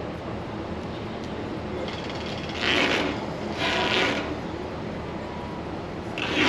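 A diesel engine running steadily, with three short bursts of hiss, each about half a second, coming about two and a half, four and six seconds in.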